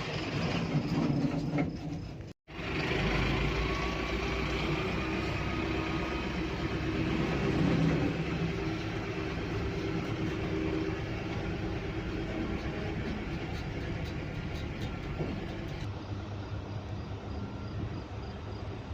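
Tractor engine running steadily. The sound drops out completely for a moment about two seconds in.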